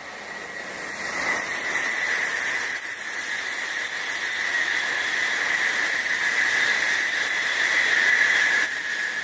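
Tokaido Shinkansen N700-series bullet train passing at speed, a loud rushing hiss with a steady high whine. It builds over the first two seconds, holds steady, then drops off sharply near the end as the train clears.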